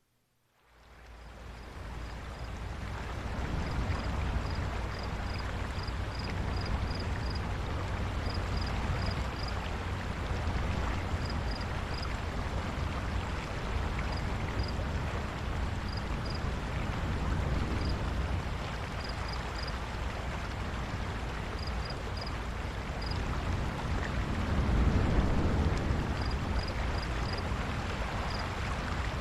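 Steady rushing background noise with a strong low rumble, fading in over the first two seconds and swelling briefly near the end. Faint short high chirps come in small groups throughout.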